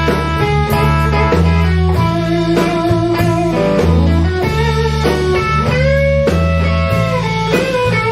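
Instrumental blues-rock intro from a band recording. An electric lead guitar plays bending notes over a bass line and a steady drum beat.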